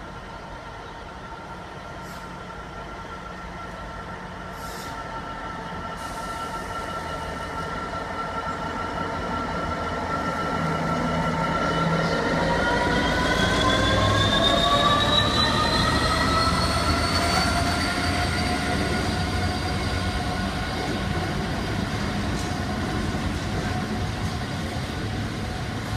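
DB Cargo Class 66 diesel-electric locomotive, an EMD two-stroke V12, passes hauling a long train of hopper wagons. It grows louder on the approach, and its steady whine rises in pitch as it draws level, loudest about halfway through. Then the hoppers roll past on the rails.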